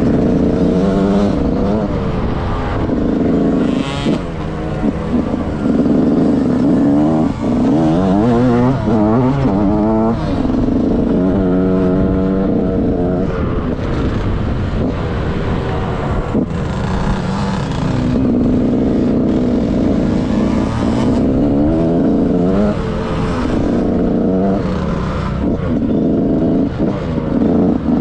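The KTM SX 65 dirt bike's 65 cc two-stroke single-cylinder engine, heard through an onboard GoPro, revs up and eases off again and again as it is ridden around a motocross track.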